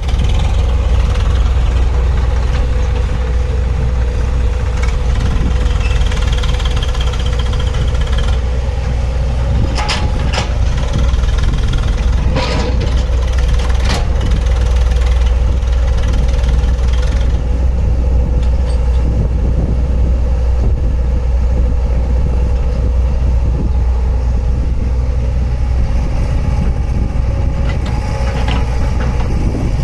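Heavy diesel engine of earth-moving machinery running steadily with a deep, constant hum. A few sharp knocks come about a third of the way in.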